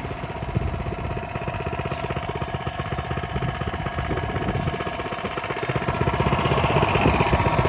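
Coleman mini bike's small single-cylinder four-stroke engine running with a rapid, even pulsing putter, getting louder from about six seconds in.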